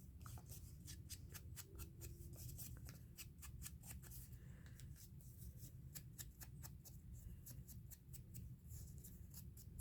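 Faint, quick light ticks of hand tools working on paper, several a second, over a low steady hum.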